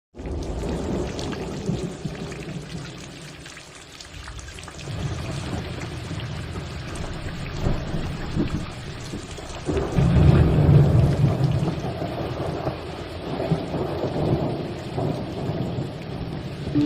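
Waterfall: a continuous rush of falling water, deepest in the low end, easing off a few seconds in and then swelling louder about ten seconds in.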